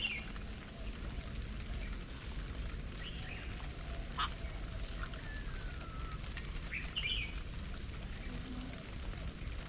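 Garden birds calling: scattered short chirps and one falling whistle, with a single sharp click about four seconds in, over a steady low rumble.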